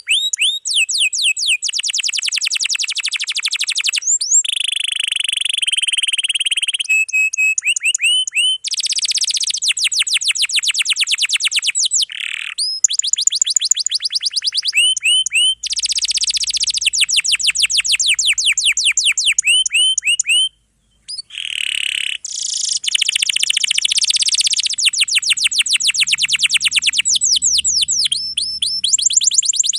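Domestic canary singing long, fast rolling trills of rapidly repeated notes, one run changing into the next, with a brief break in the song about two-thirds of the way through.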